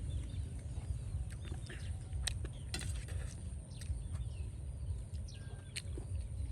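Scattered light clicks and knocks over a steady low rumble, with a few faint bird chirps.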